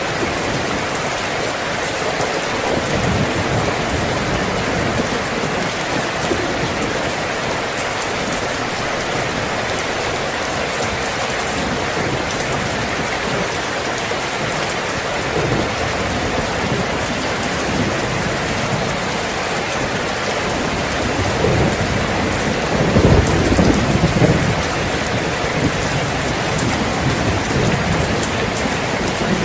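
Steady rain falling, with a low rumble of thunder swelling up about three-quarters of the way through.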